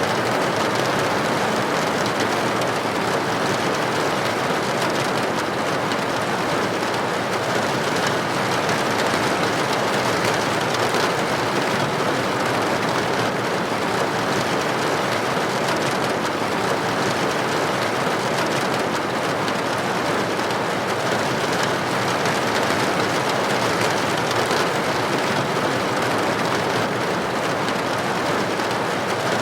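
Rain falling steadily against a building's window, a dense, even hiss with no separate drops or breaks.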